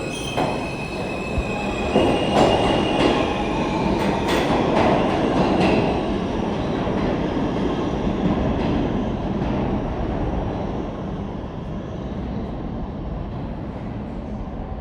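R160 subway train running on the track, wheels squealing in high steady tones near the start, then a run of sharp clicks over the rail joints under a loud rumble, fading gradually as the train moves away.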